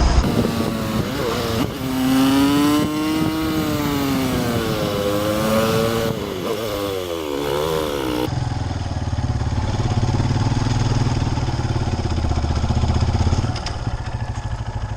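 Motorcycle engine revving, its pitch rising and falling several times. About eight seconds in the sound changes abruptly to a lower, steadier engine note, which turns into a regular pulsing near the end.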